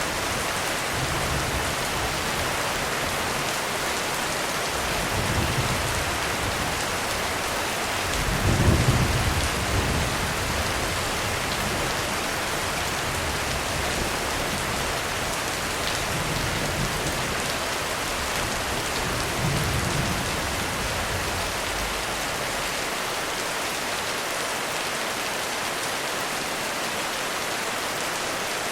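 Heavy rain falling steadily, with several low rolls of thunder. The loudest roll comes about a third of the way through, and the last fades out after about twenty seconds.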